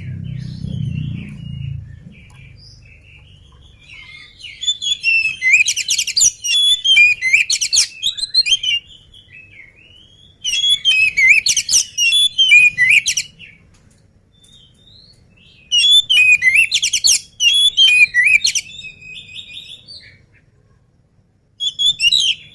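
Oriental magpie-robin singing in bursts of rapid, varied whistled phrases: four bouts of a few seconds each, with short pauses between them.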